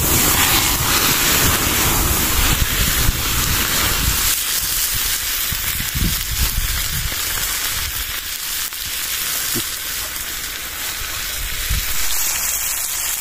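Chopped shallots, garlic, chillies, tomato and spring onion frying in hot oil in a frying pan: a steady sizzle, loudest in the first few seconds and easing a little after about four seconds.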